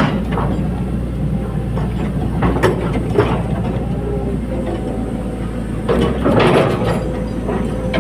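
Caterpillar 320D hydraulic excavator running steadily under a constant diesel drone, with metal clanks and squeals from the working machine a few times, the longest clatter about three-quarters of the way in.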